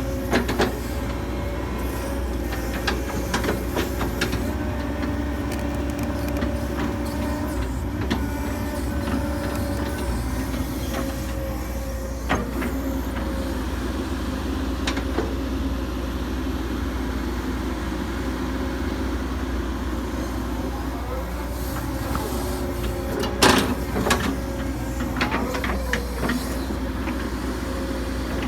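Hitachi 135US excavator's engine running steadily while it works, with a steady whine over the engine and scattered clanks and knocks, loudest in a cluster about 23 seconds in.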